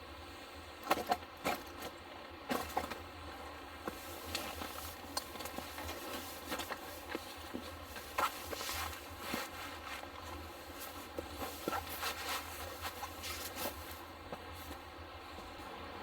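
Hands handling camp gear at close range: scattered sharp clicks and knocks, with rustling and scraping that thickens in the middle.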